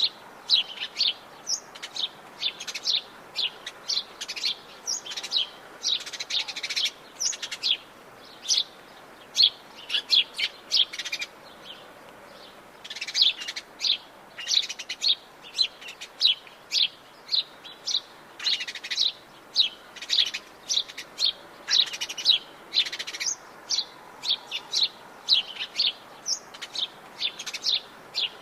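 Several birds chirping and singing in quick, overlapping high chirps, with a short lull about twelve seconds in, over a faint steady background hiss.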